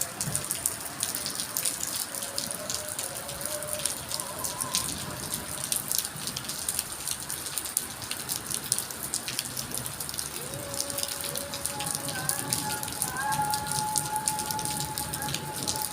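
Heavy rain pouring down, a dense steady patter of drops striking hard surfaces.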